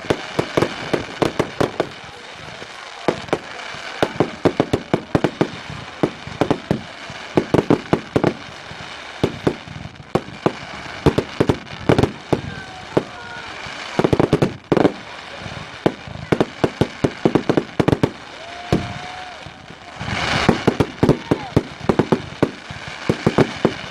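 Fireworks display: a rapid, unbroken string of sharp bangs and crackling reports at irregular intervals.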